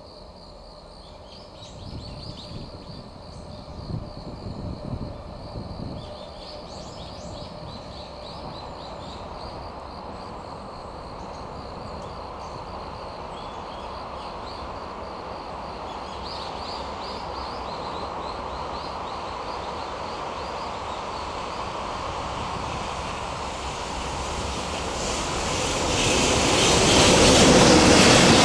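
Electric-locomotive-hauled container freight train approaching out of a tunnel: a rumble that builds slowly and is loudest near the end as the locomotive passes. A few irregular knocks in the first few seconds.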